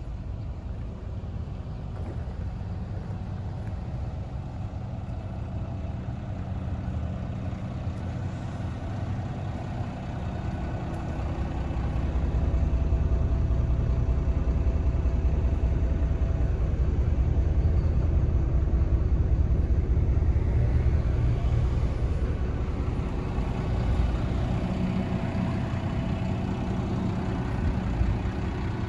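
Scania P280 truck's diesel engine running steadily, growing louder partway through and then easing back off.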